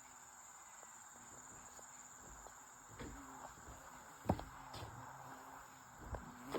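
Steady high-pitched drone of rainforest insects, with a few short knocks; the loudest knock comes a little past the middle.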